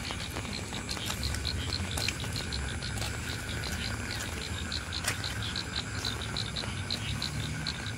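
Steady rain falling, with a few sharp drip ticks. Over it, an animal calls in a continuous run of short high-pitched pulses, about five a second.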